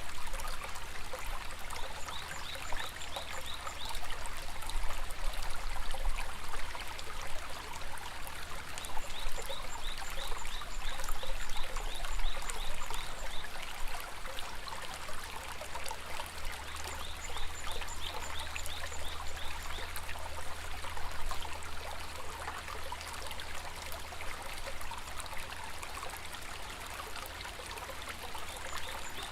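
A river running and trickling in a steady rush. Bouts of rapid, high chirping come every few seconds over it.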